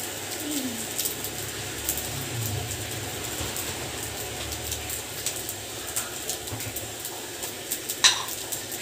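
Fried rice with egg sizzling in an aluminium wok on an induction cooktop: a steady hiss with scattered small crackles, and one sharp click near the end.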